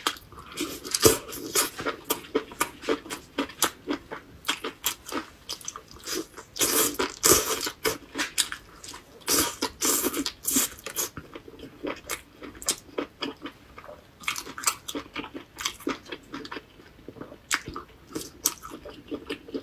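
A person biting and chewing meat pulled off skewers: a close, steady run of crunching, wet mouth clicks that comes thick for a few seconds at a time, with short lulls between.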